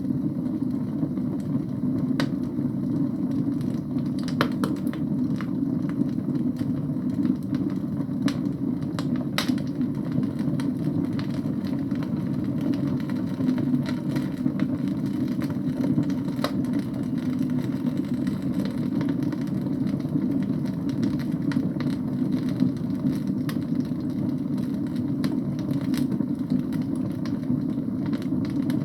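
Wood fire burning in a fireplace: a steady low rush of flame with scattered sharp crackles and pops from the burning logs.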